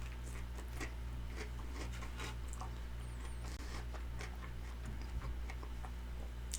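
Crispy Korean fried chicken being chewed close to the microphone: faint, irregular crunching crackles over a steady low hum.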